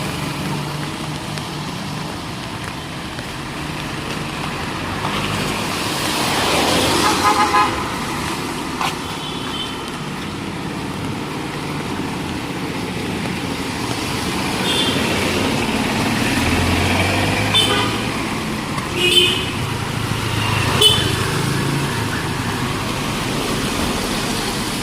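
City street traffic going by, with one vehicle passing close about a quarter of the way in and several short horn toots, most of them in the second half.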